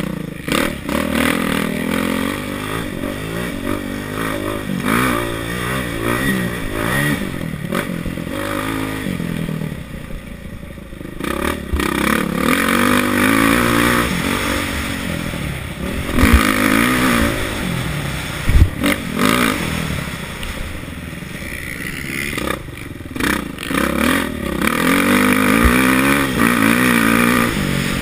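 Kawasaki KX450F's single-cylinder four-stroke engine, heard from the rider's seat, revving up and dropping off again and again as the bike is ridden hard through the turns. A few sharp knocks come through, most plainly in the second half.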